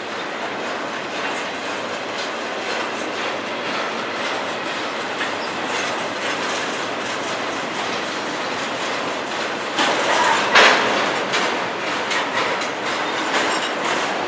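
Double-stack intermodal container train rolling past at trackside: the steady rumble and clatter of the well cars' wheels on the rails, with a louder burst of clatter about ten seconds in.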